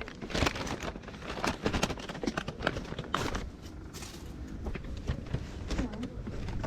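Footsteps of a person walking, with irregular knocks and rustling from handling a bag or gear, over a low steady background noise.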